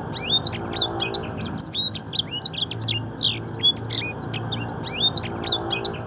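Canary singing a fast, unbroken song of quick rising and falling chirps and trills, filled with phrases copied from the blackthroat's song. A low steady hum runs underneath.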